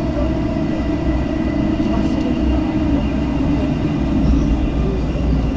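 JR West local commuter train running, a steady rumble heard from inside the carriage with a faint steady whine above it.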